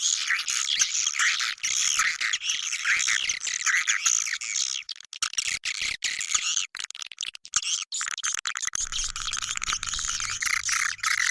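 Swiftlet calling-sound lure track: a dense, continuous chorus of high swiftlet twittering and chirps, with nothing below the chirps' range, thinning for a few seconds in the middle.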